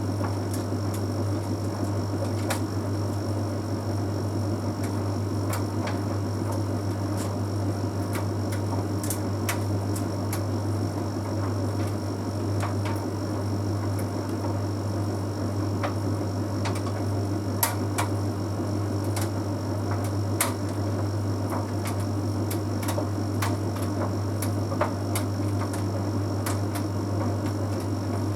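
Bosch Series 6 heat pump tumble dryer running mid-cycle: a steady low hum with drum rumble and a faint high whine, dotted with scattered light clicks from the tumbling load.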